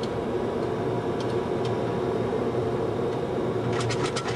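Steady cockpit noise of a Boeing 737-200 climbing out after takeoff: an even rush of airflow and JT8D engine noise, with a quick run of clicks near the end.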